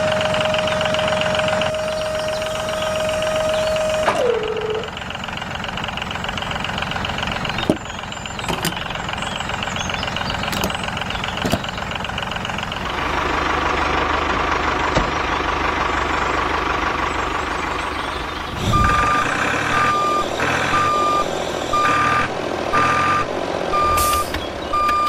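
A vehicle reversing beeper sounding a repeated high beep a little over once a second through the last six seconds, over vehicle running noise. Earlier, a steady high whine drops in pitch about four seconds in, and mechanical running noise follows.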